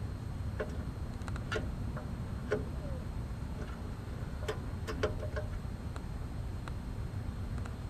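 Scattered light clicks and taps of metal multimeter probes being set on the terminals of an air conditioner's run capacitor while its 5 µF fan side is measured, over a steady low rumble. The clicks come irregularly, a few seconds apart, with a cluster around the middle.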